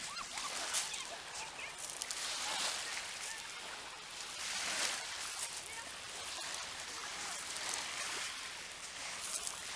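Sea water washing and sloshing, a steady hiss that swells and fades every couple of seconds.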